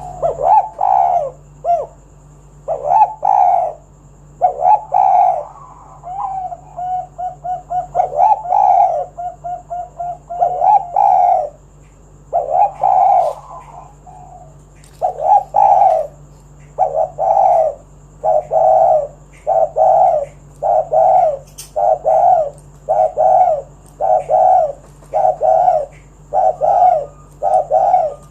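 Spotted dove (tekukur) cooing repeatedly. The coos come in an uneven pattern at first, then settle from about halfway into a steady run of evenly spaced coos, a little over one a second.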